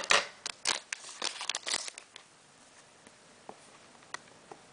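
Pokémon card booster pack wrapper crinkling and rustling as it is handled and opened, in a run of sharp crackly bursts over the first two seconds, then only a few faint ticks.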